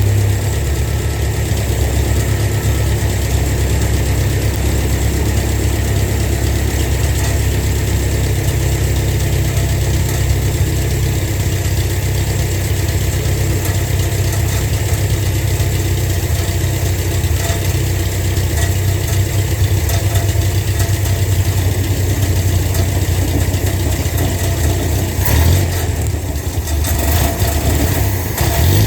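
An engine idling steadily with a heavy low drone, changing a little near the end.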